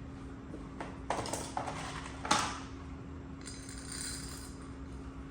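Dishes and cutlery clinking in a kitchen during coffee making: a few short clinks, the loudest about two seconds in, then a brief high ringing, over a steady low appliance hum.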